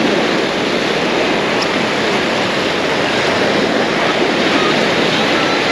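Sea surf: a loud, steady wash of breaking waves.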